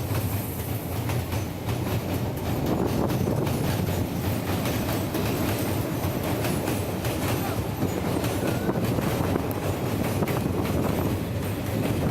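Train running on the rails, a steady heavy rumble with continuous clattering of wheels over track joints.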